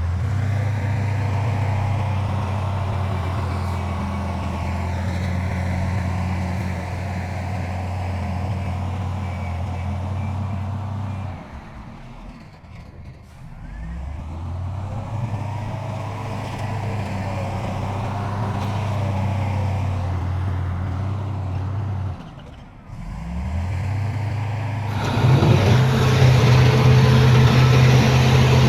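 Heavy diesel engine of earthmoving machinery running steadily under load. It drops away twice and rises again in pitch, and is louder and fuller near the end.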